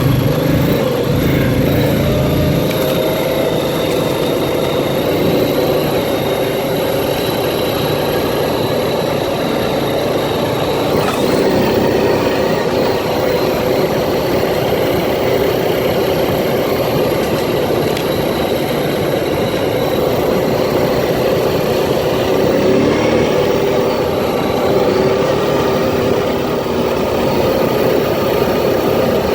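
Can-Am ATV engine running steadily as the four-wheeler rides along, with a steady low rumble underneath.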